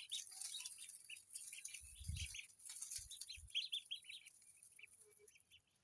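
A group of ducklings peeping, many short high calls close together, thinning out near the end. A few dull low thumps come about two and three seconds in.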